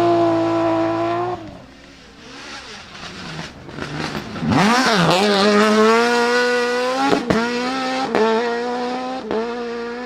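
Rally car engines at full revs. One cuts off sharply about a second and a half in; then, about four seconds in, another engine's revs dip and climb hard and hold high, with several sharp bangs in the second half.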